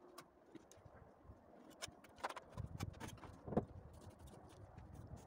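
Faint, scattered taps and knocks from bricklaying, such as bricks being set and tapped into place; the loudest knock comes about three and a half seconds in.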